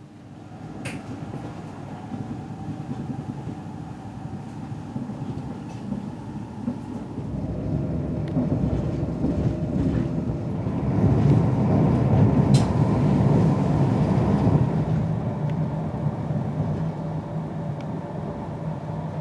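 Pendolino passenger train running on the rails, heard from inside the carriage: a steady rolling rumble that grows louder through the first half and then eases off, with two sharp clicks, one about a second in and one about two-thirds of the way through.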